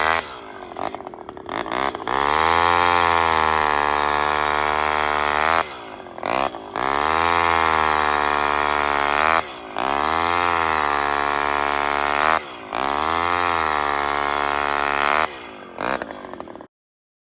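Vintage gasoline chainsaw idling briefly, then revved hard in four long, steady bursts with short drops back between them, before the sound cuts off near the end.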